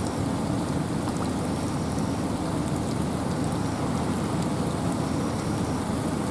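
Steady rain falling through forest with wind, a dense even hiss weighted toward the low end, with faint scattered drips.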